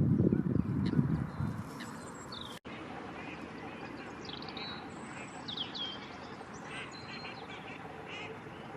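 Birds calling outdoors: a scatter of short high chirps and quick downward-sliding calls over a steady background. A loud low rumble in the first second or so fades away by about two seconds in.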